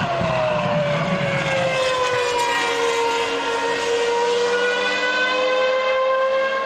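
Ferrari Formula 1 car engine at high revs with a high wail that drops in pitch over the first two seconds or so, then holds and creeps slowly back up as it keeps running.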